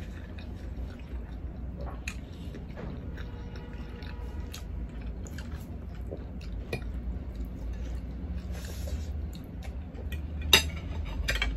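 Chewing of pata kare-kare and rice, with scattered small clicks. Near the end come two loud, sharp clinks of a fork against a plate.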